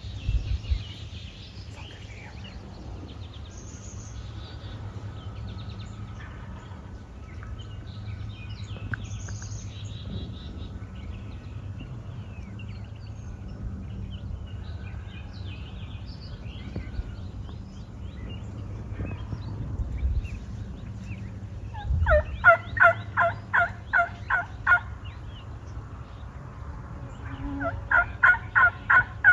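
Two runs of loud, evenly spaced wild turkey yelps, about three to four notes a second: one lasting a couple of seconds about two-thirds of the way through, a shorter run at the very end. Faint songbird chirps come and go over a steady low hum.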